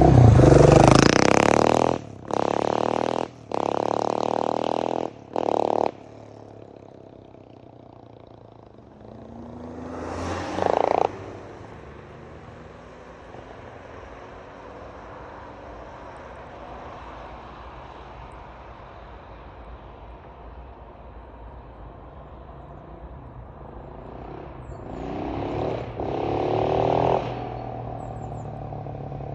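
KTM 690 SMC R single-cylinder engine through a LeoVince exhaust with the catalytic converter removed. It is revved hard in four short blasts that cut off sharply, then settles to a steady idle, revs up once about ten seconds in, and revs again in a burst near the end.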